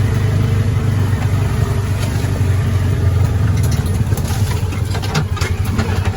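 Polaris Ranger 570's single-cylinder engine running steadily at low speed through an exhaust quieted with a stainless insert in the pipe. About five seconds in, the individual exhaust pulses become distinct.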